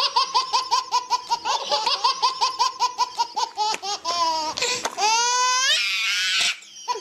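High-pitched laughter sound effect: a rapid 'ha-ha-ha' at about five laughs a second. Just after four seconds it breaks into long rising squeals, then a shimmering whoosh.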